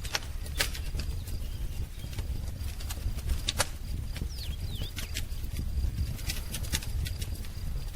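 Wood fire crackling, with irregular sharp pops over a low rumble of the flames. A few short, faint bird chirps come about halfway through.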